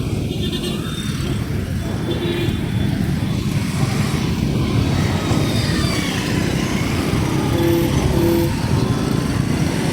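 Motorcycle engine running and road and wind noise on a ride through city traffic, a steady low rumble. Two short horn beeps sound close together about eight seconds in.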